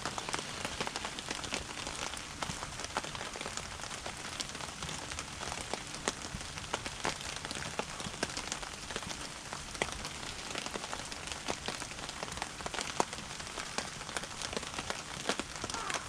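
Steady rain falling, with many sharp separate drop hits.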